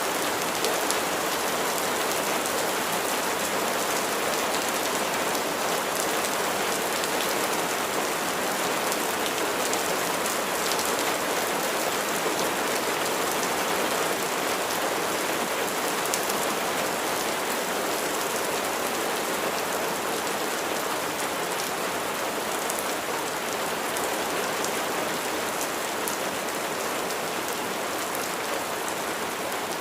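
Steady rain falling on a surface, an even hiss with the patter of separate drops and no thunder.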